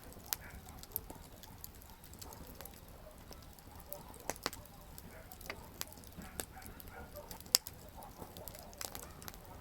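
Wood campfire crackling: irregular sharp pops and snaps scattered through, one louder pop about seven and a half seconds in, over a low steady hiss of burning.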